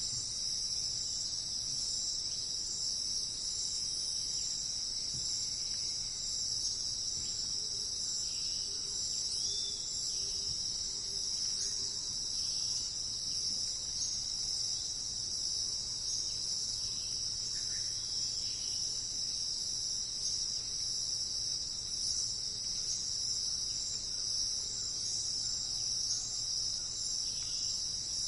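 Steady, high-pitched insect chorus trilling without a break, with a few faint short chirps scattered through it.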